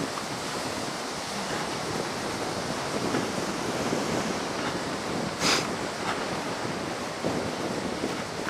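Heavy ocean surf breaking steadily on a sandy beach, with waves running high after a typhoon, and wind buffeting the microphone. A short, sharp rushing noise comes about two-thirds of the way through.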